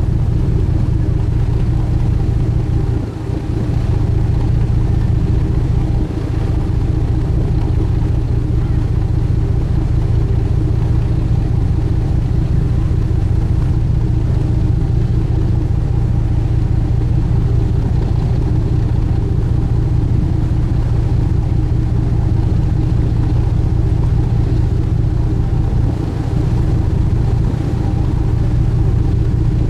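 Sightseeing boat's engine running steadily under way, a constant low drone heard on board, with a brief dip about three seconds in.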